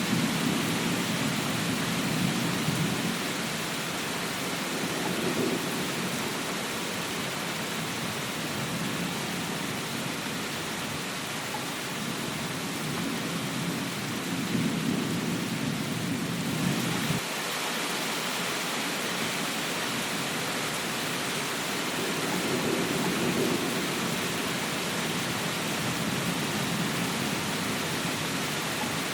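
Steady rain hiss with low rumbles that swell and fade several times. About seventeen seconds in, the rumble cuts off abruptly and the hiss changes character, like a loop splice.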